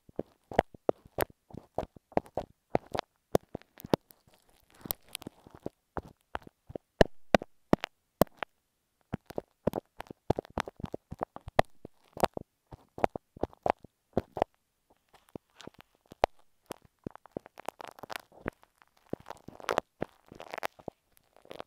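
Glue stick worked against an earphone microphone: close, sticky clicks and crackles in an irregular stream, thinning briefly about two-thirds of the way in, then growing denser near the end.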